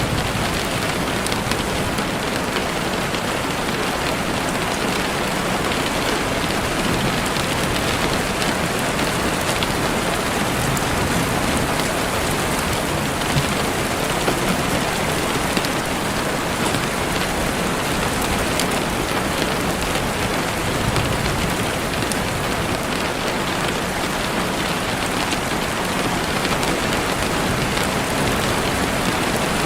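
Heavy rain falling steadily on leaves and the ground, an even, continuous hiss of many drops with no let-up.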